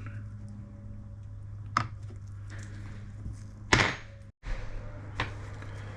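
An old can of Brasso metal polish being handled and its cap pried open: a short click near two seconds in, then a louder thunk a couple of seconds later, over a steady low hum.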